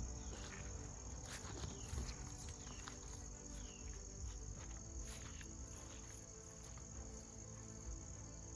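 Steady high-pitched trilling of crickets or similar night insects, with a few faint short chirps and light clicks over it.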